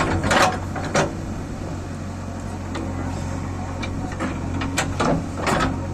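JCB 3DX backhoe loader's engine running steadily, with a few sharp knocks or clanks about half a second in, at about one second, and twice near the end.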